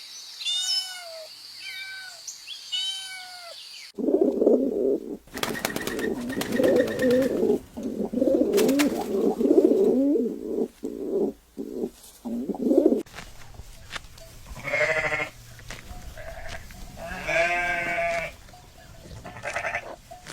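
A series of animal calls: a cat meowing four times, then a cut to a dense run of low, warbling calls with clicks, then a few louder, pulsing calls near the end.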